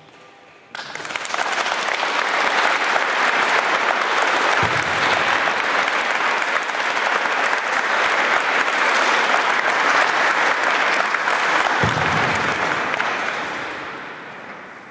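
Audience applauding, breaking out suddenly about a second in, holding steady, then dying away near the end.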